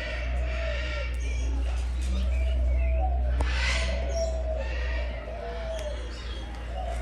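Aviary birds calling: short arched notes repeated about once a second, with higher chirps scattered among them, over a steady low hum.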